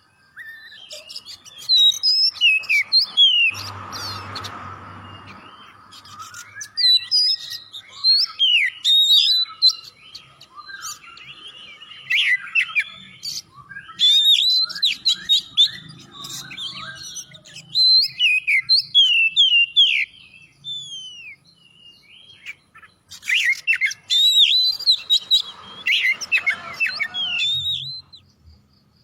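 Oriental magpie-robin (kacer) singing a loud, fast, varied song of whistled and chattering phrases that glide up and down, delivered in bursts with short pauses.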